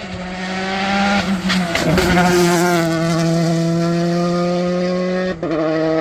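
Modern rally car engine running hard under load. There is a burst of crackles and clicks between about one and two seconds in, then the note climbs slowly. About five seconds in it breaks briefly and drops at a gear change, then pulls on.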